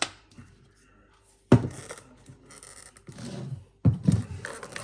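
Objects being handled in a small room: a few separate knocks and clatters, with a short scraping or rustling sound about three seconds in.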